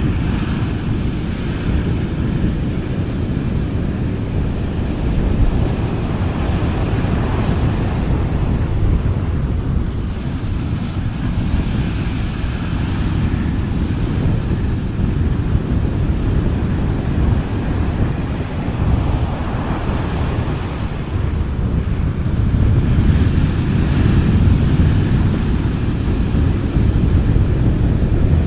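Gentle sea waves washing onto a beach, the hiss of each wave swelling and fading every few seconds, over a steady low rumble of wind on the microphone.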